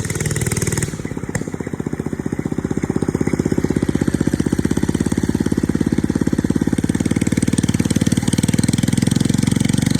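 1979 Thunderbird mini bike's small single-cylinder engine running steadily with rapid, even firing pulses. It drops back briefly about a second in, then holds a steady note.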